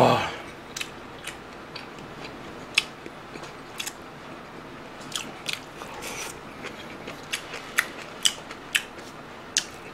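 Close-miked eating: a loud open-mouthed exhale right at the start after a sip of hot broth, then chewing with irregular sharp wet clicks and crisp crunches as kimchi is eaten.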